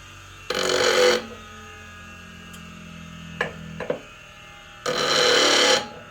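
Bench grinder coasting down with a low hum after being switched off, while a lathe gouge's bevel is touched to the wheel twice, giving two short bursts of grinding of under a second each. A couple of light clicks come between the bursts, and the hum dies away about two-thirds of the way through.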